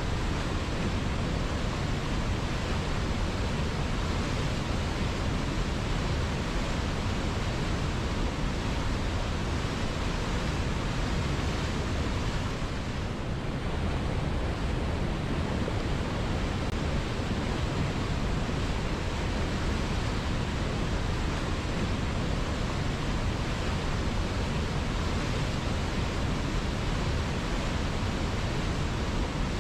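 River water flowing steadily, an even rushing sound with no breaks, softening slightly for a moment about halfway through.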